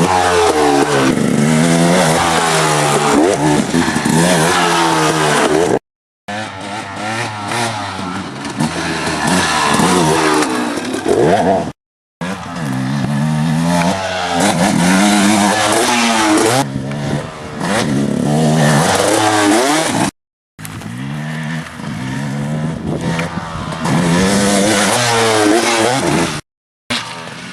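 Dirt bike engine revving up and down repeatedly as it is ridden, pitch climbing and dropping again and again. The sound breaks off four times in short silent gaps.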